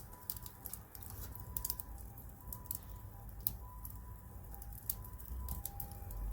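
Wood campfire crackling, with sharp irregular pops and snaps over a low rumble.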